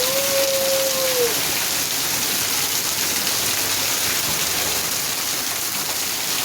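Heavy rain falling steadily, a dense hiss of rain on surfaces. Near the start a single held tone sounds for just over a second and drops off at its end.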